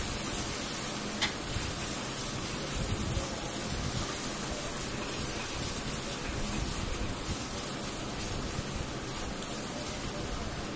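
Onion-tomato masala frying in mustard oil in a steel kadai, sizzling steadily while it is stirred with a spatula, with one sharp click about a second in. The masala is cooked down to where the oil has separated from it.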